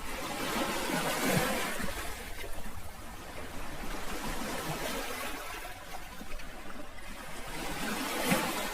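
Sea waves washing in and drawing back, a continuous rush of surf that swells about a second in and again near the end.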